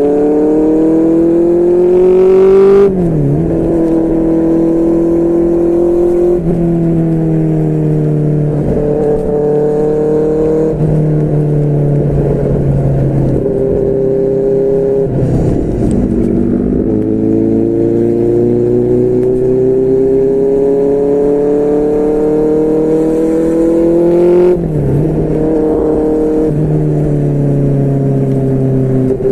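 QJMotor SRK600's inline-four engine through a Yoshimura R11 exhaust, ridden on the road. It climbs in revs, drops sharply on a gear change about three seconds in, and holds steady stretches with a few steps in pitch. It then rises in one long pull before another sharp drop near the end.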